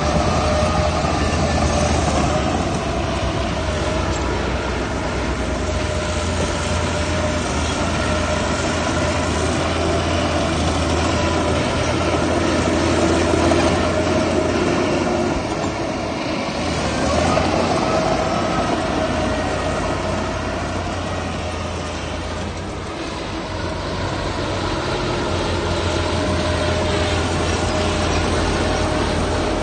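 Heavy diesel earthmoving machinery running under load: a steady low engine drone with whining tones over it that shift in pitch, easing off briefly twice.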